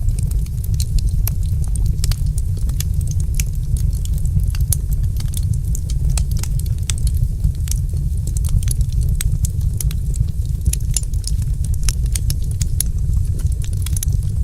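Wood fire crackling: many small sharp pops and snaps at irregular intervals over a steady low rumble.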